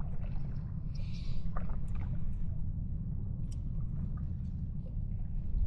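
Steady low rumble of a small fishing boat's engine running, with a few faint ticks and a brief hiss about a second in.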